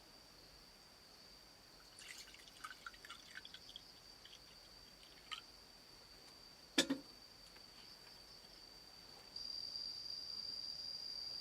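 Steady high-pitched insect drone that gets louder near the end, over a scatter of small ticks and clicks and one sharp knock a little past the middle.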